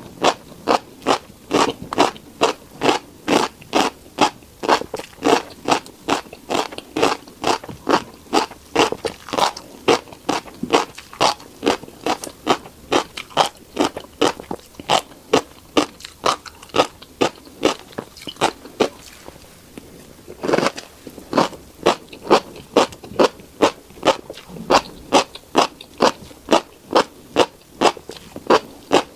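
Close-miked crunchy chewing of a mouthful of tiny black seeds, about two crisp crunches a second, with a brief pause about two-thirds of the way through.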